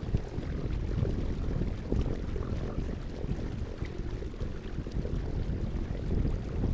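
Wind buffeting the microphone: an uneven low rumble with small gusts and no pitched sound.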